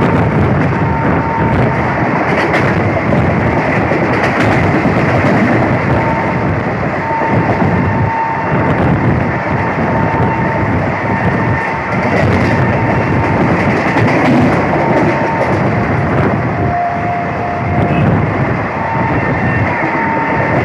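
Passenger train running at speed, heard from on board: a loud, steady rumble of wheels on the track with a thin whine that comes and goes.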